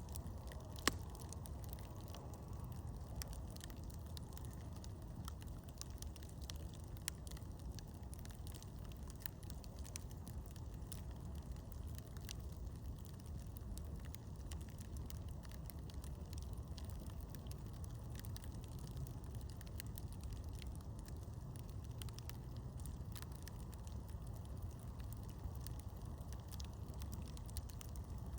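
Campfire burning and crackling, with scattered sharp pops, one louder pop about a second in, over a steady low rumble.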